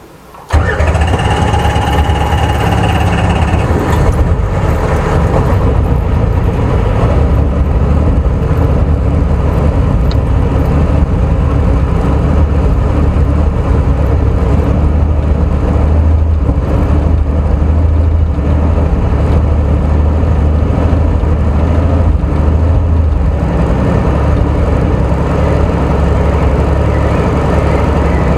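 Helicopter engine starting up and then running, a loud steady low drone, with a high whine over the first few seconds.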